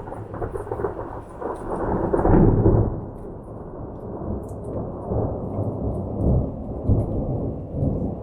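Thunder during a thunderstorm: a sudden crack that builds to its loudest about two to three seconds in, then rolls on as a long, uneven low rumble.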